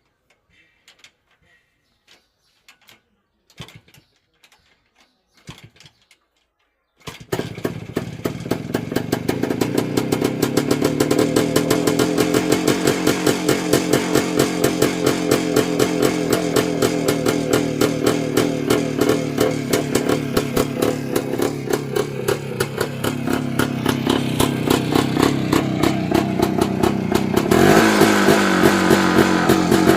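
A few faint knocks, then about seven seconds in the Voskhod motorcycle's single-cylinder two-stroke engine starts at once and runs with a rapid, even firing beat. Near the end it is revved higher and louder.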